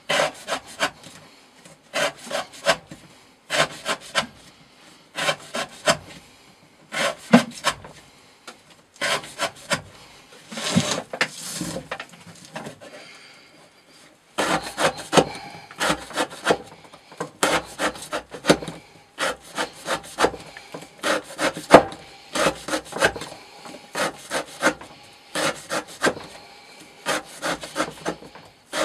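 A knife blade slicing through rope in quick repeated rasping strokes, several a second, with a pause of about two seconds midway. This is the blade being worked through a long cut-count edge-retention test.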